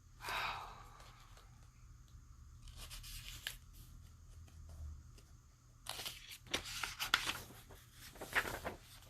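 Paper rustling as the pages of a book are turned and handled: a brief rustle near the start, another around three seconds in, and a busier run of crackling page sounds from about six seconds in.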